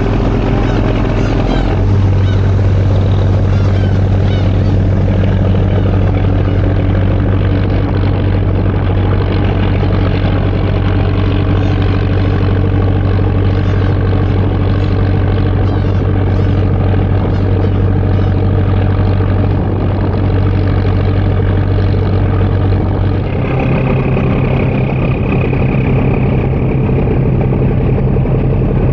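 Heavy diesel engine of a car ferry running steadily with a deep, even hum, its note stepping to a different pitch about two seconds in and again near the end as the engine speed changes.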